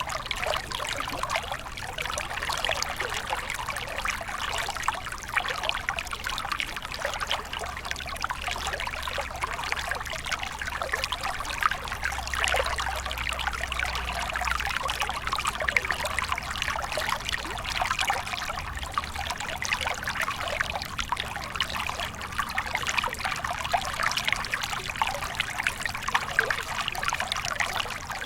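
Small stream flowing steadily, water trickling and splashing over stones.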